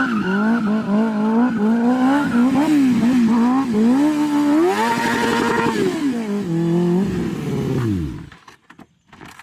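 Motorcycle engine being revved in repeated blips, its pitch rising and falling over and over, held high for about a second midway, then winding down and stopping about eight seconds in; a few faint clicks follow.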